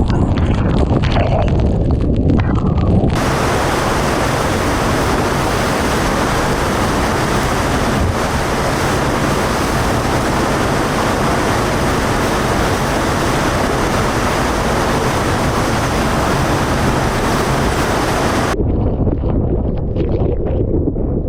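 Typhoon eyewall wind with torrential rain and blowing spray, a loud continuous rush with wind buffeting the microphone. It is muffled and boomy at first, turns to a bright, full hiss about three seconds in, and goes back to the muffled buffeting near the end.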